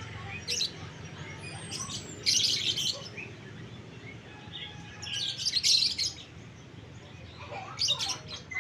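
Caged birds chirping shrilly in several bursts, about four clusters of rapid high chirps over a steady low background hum.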